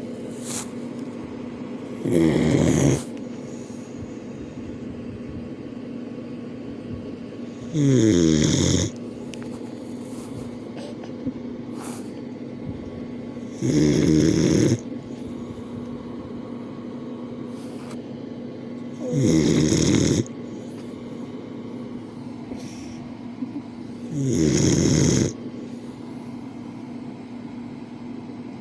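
Boxer dog snoring in its sleep: five loud snores, each about a second long, coming roughly every five to six seconds. Such snoring is typical of the breed's short, flat muzzle.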